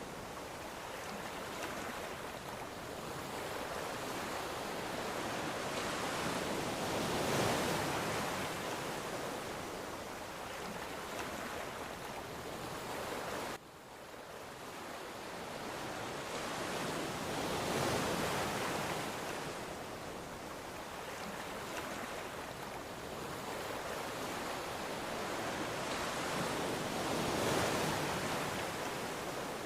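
Ocean surf: waves breaking and washing in, swelling and fading about every ten seconds. Just before the halfway point the sound cuts out abruptly for an instant and then builds again.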